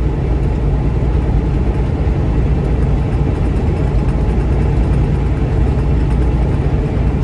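Steady low drone of a vehicle's engine and road noise, heard from inside the moving vehicle's cab.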